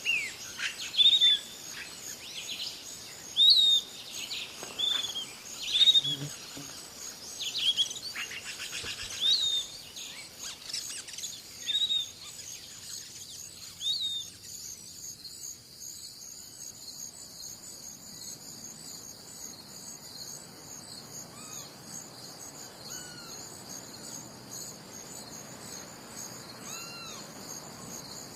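Songbirds chirping, with short, sharp, arching calls coming quickly in the first half. About halfway through the calls thin out, and a steady, high-pitched chorus of crickets takes over, with a few faint bird calls over it.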